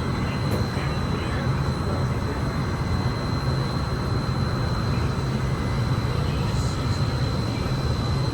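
Steady low rumble and hum of a Hudson-Bergen Light Rail car, with a thin, steady high whine throughout.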